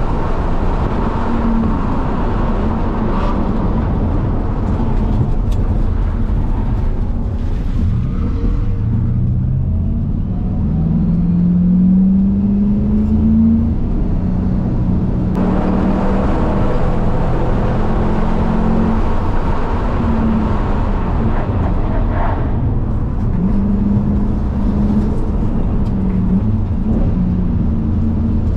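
Ford Mustang engine heard from inside the cabin at track pace, its note rising and falling with the throttle through the corners, with one long climb in pitch a little before the middle. Steady wind and road noise run underneath.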